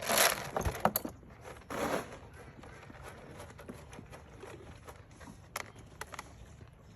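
Feed pellets rattling as they are poured and handled for donkeys: a short rush of rattling at the start and another about two seconds in, with scattered clicks and knocks.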